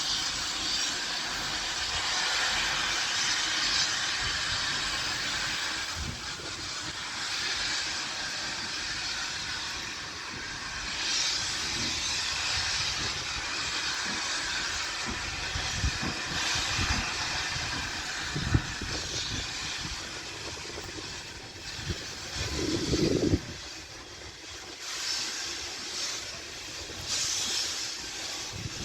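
A train at a station: a steady hiss with scattered low knocks and clanks, and a short lower-pitched sound about 23 seconds in.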